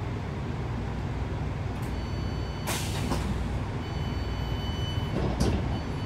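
Cabin sound of a Class 165 Networker Turbo diesel multiple unit running as it slows into a station: a steady low rumble of engine and wheels, with two short hisses about a third and nine tenths of the way in, typical of air brakes, and a faint high steady ring from about two seconds in.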